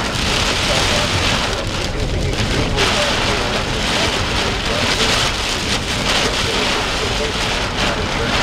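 Heavy rain falling hard and steadily.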